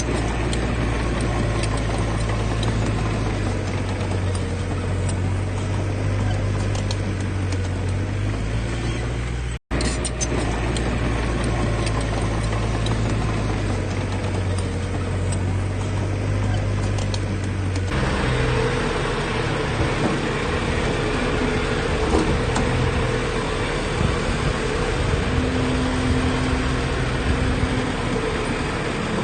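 Heavy diesel earth-moving machinery running steadily with a low engine drone. The sound drops out for an instant about ten seconds in, and its character changes abruptly around eighteen seconds.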